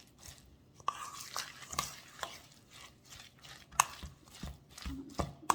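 A spoon stirring a thick, sticky mix of oats, flaxseed, peanut butter and maple syrup in a bowl, with soft scraping and irregular clicks and knocks of the spoon against the bowl; the sharpest knock comes a little before the end.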